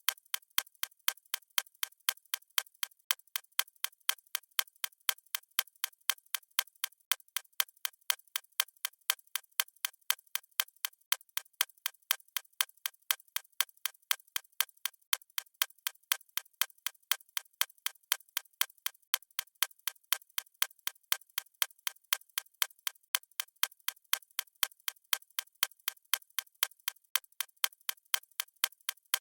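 Clock ticking steadily at about two ticks a second, each tick a sharp, even click.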